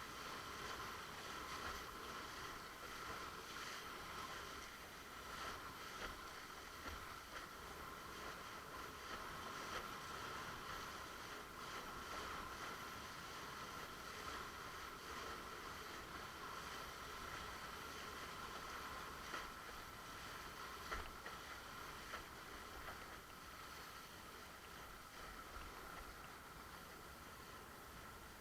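Water rushing along a windsurf board as it sails, steady, with a few brief sharper slaps.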